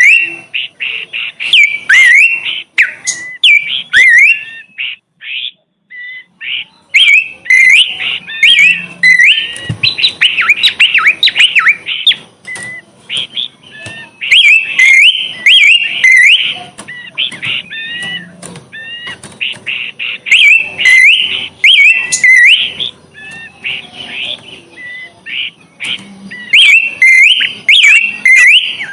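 A small songbird singing loudly, with rapid runs of sharp chirps and whistled notes broken by short pauses, and a brief break about five seconds in.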